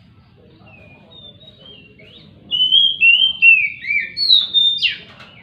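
Oriental magpie-robin singing: a few faint whistled notes, then from about two and a half seconds in a loud run of clear whistles sliding downward, ending in a sharp downward sweep.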